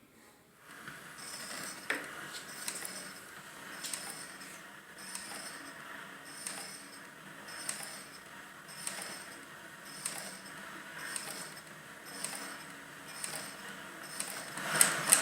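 Leather patch sewing machine stitching slowly and steadily: an even, repeating clack of the needle bar and mechanism, a little under two stitches a second, starting just under a second in, with a few louder clicks near the end.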